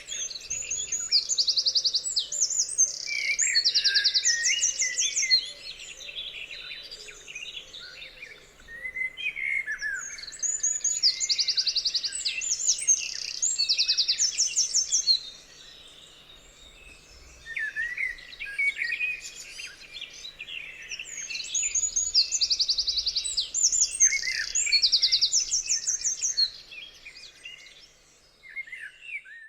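Songbirds singing: quick, high trills with lower chirps woven through, in three bouts about ten seconds apart, with quieter chirping in between.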